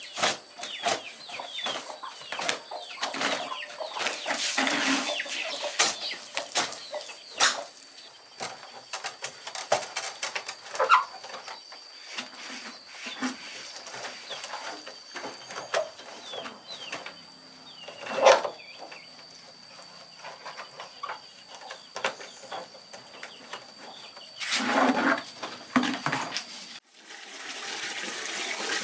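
Chickens clucking, with high falling peeps and many small clicks and taps, over a faint steady high tone. Near the end the sound cuts to a steady rush like running water.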